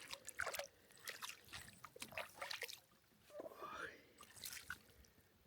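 Faint water dripping and small splashes, with scattered light clicks, as a small fish is landed from the water.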